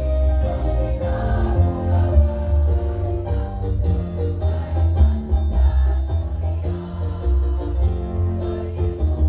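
Women's choir singing with backing music and a strong, steady bass line.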